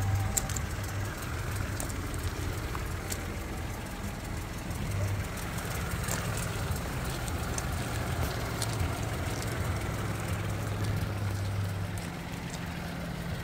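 Peugeot 208 1.2 VTi's three-cylinder petrol engine idling steadily, a low even hum heard from outside the car.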